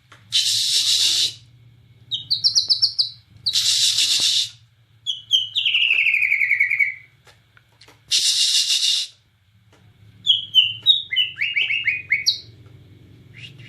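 Bornean white-rumped shama (murai batu) in full song: fluty whistled phrases made of quick falling note runs, broken by three loud, harsh rasping bursts about a second long each.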